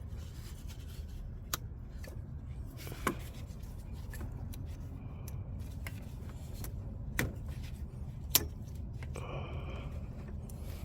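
Cutters snipping plastic zip ties: about four sharp isolated clicks spread over several seconds, over a steady low hum.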